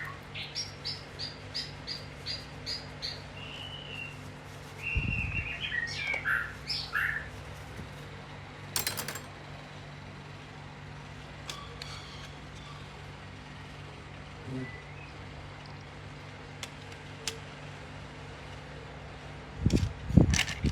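A bird chirping: about a dozen quick repeated high chirps over the first three seconds, then a warbling call, over a steady low hum. A few loud knocks come near the end.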